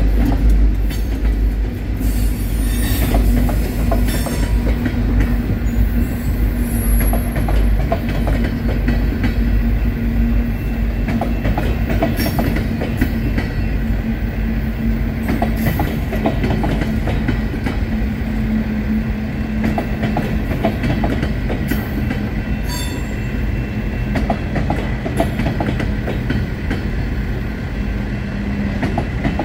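Covered hopper cars of a freight train rolling past at a grade crossing: a continuous rumble and clatter of steel wheels on the rails, with a thin steady wheel squeal running through it and occasional sharp clanks. The low rumble of the just-passed GP38-2 locomotives fades in the first couple of seconds.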